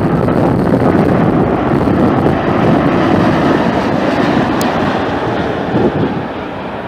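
Jet airliner engine roar, steady and then easing off near the end as the aircraft moves away, with wind buffeting the microphone.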